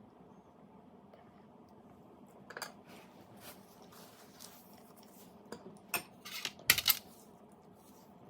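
Kitchenware being handled: scattered clicks and clinks, with a short run of louder clattering about two-thirds of the way in, over a low steady hum.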